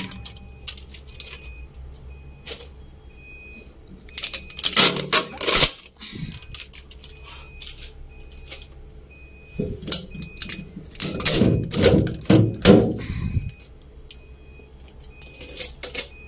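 A Hitachi refrigerator's door-open alarm beeps faintly and steadily in short repeated beeps. Over it come loud bursts of plastic clattering and rustling as the fridge's drawer and shelves are handled and tape is pulled off.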